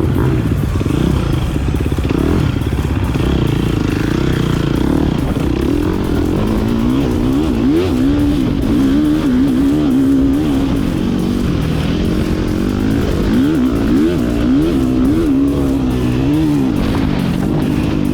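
Motocross dirt bike engine being ridden hard, its pitch rising and falling quickly over and over as the throttle is opened and shut and it shifts gears.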